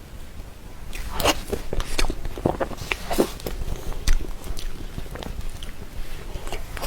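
Close-miked chewing of soft cream cake: a run of short wet mouth clicks and smacks, starting about a second in.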